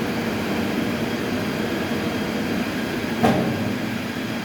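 Heavy sawmill machinery running with a steady, noisy rumble and hum, and a single sharp knock a little after three seconds in.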